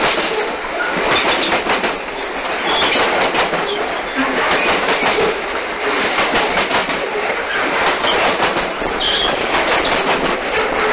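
Grain hopper freight cars rolling past close by, wheels clattering steadily over the rail joints. There are a few brief high-pitched wheel squeals, mostly in the second half.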